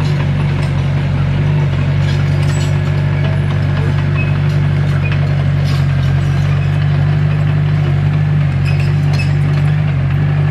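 Komatsu D21P crawler bulldozer's diesel engine running at a steady, unchanging speed, with occasional light metallic clinks.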